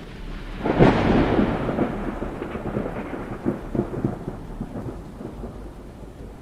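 A close thunderclap cracks sharply about a second in, then rolls and rumbles with crackles as it slowly fades.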